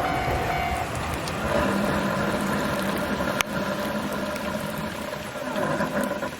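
Keio Inokashira Line 1000-series electric train running by in the rain, its motors giving several steady humming tones over the hiss of rain, with one sharp click about three and a half seconds in.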